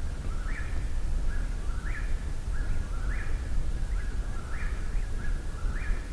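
Eastern whip-poor-will singing its song over and over, the three-part 'whip-poor-will' phrase ending in a rising note, a little more than once a second, about five times.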